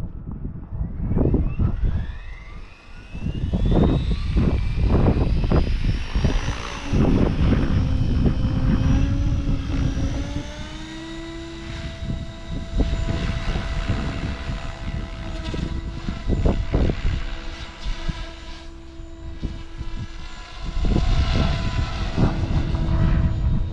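Kraken 580 RC helicopter spooling up, its motor and rotor whine rising steadily in pitch over the first ten seconds or so, then holding a steady note as it flies. Gusty wind rumbles on the microphone.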